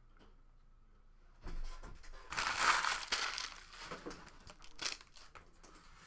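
Plastic trading-card packaging being torn open and crinkled by hand, starting about a second and a half in, with the densest rustle about a second later, then scattered crackles.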